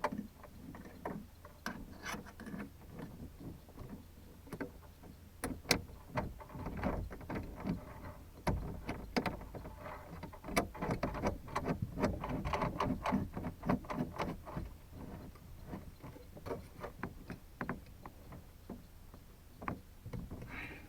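Irregular clicks, knocks and scraping of a scanner radio being fitted into its mounting bracket and its mounting screws tightened.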